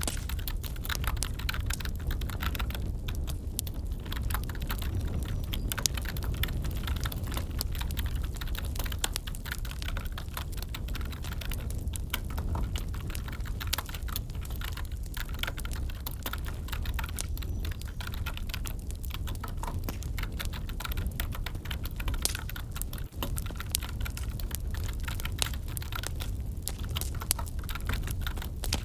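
Computer keyboard typing in quick runs with short pauses, over the steady crackle and low rumble of a wood fire.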